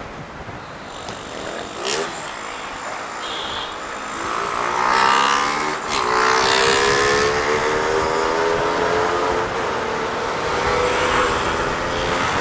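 Motorcycle engine speeding up with its pitch rising from about four seconds in, then holding a high steady note at speed, with wind rushing over the microphone.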